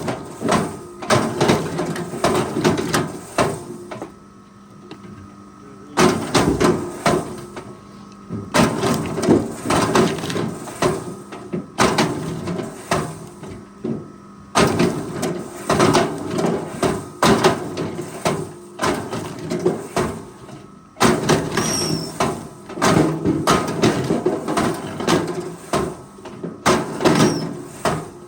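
Logging machinery working timber: rapid, irregular knocking and clanking over a steady engine hum. It comes in runs of several seconds, with short lulls about four seconds in, near eight seconds, around fourteen seconds and about twenty seconds in.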